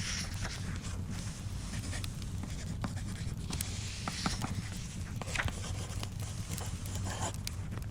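Paper pages of a book being turned, rustling several times, over a wood fire crackling with scattered sharp pops and a steady low rumble.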